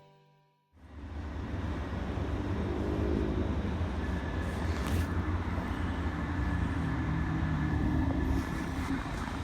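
Railway station ambience: a steady low rumble of train and traffic noise that starts suddenly under a second in, with a faint high tone in the middle.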